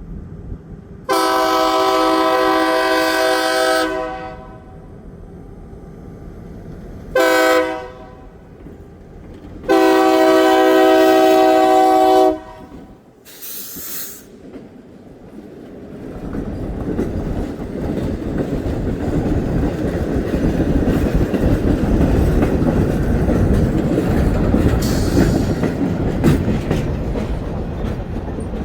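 Diesel locomotive horn sounding a long blast, a short one, then another long blast, followed by the rumble of the passing train with wheels clicking over the rail joints, growing louder from about halfway through.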